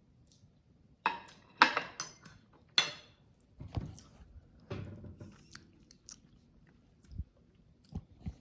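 A person eating close to the microphone. After a quiet first second comes a quick run of sharp, loud mouth noises, then fewer and softer ones.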